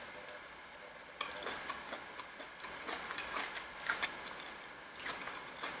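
A person chewing a mouthful of food, with irregular wet mouth clicks.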